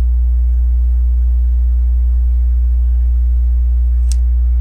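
Steady low electrical hum, with one short sharp click about four seconds in.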